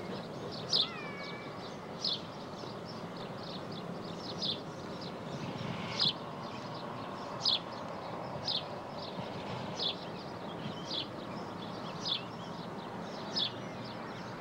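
Outdoor ambience: a small bird chirping in short notes about every second and a half, with a couple of gliding whistled notes near the start, over a steady background hiss.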